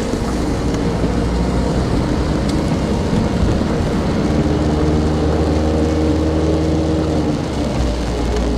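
A motor vehicle's engine running with a steady hum over a continuous rumble of road noise; the pitch of the hum shifts about four seconds in.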